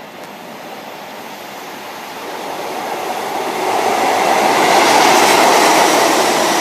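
A train approaching and passing on the line, its rail and wheel noise growing steadily louder over the first few seconds, then holding loud.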